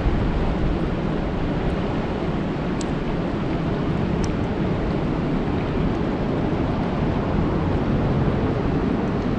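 Steady rain falling on a lake, a dense even wash of noise heaviest in the low range, with a couple of faint sharp drip ticks.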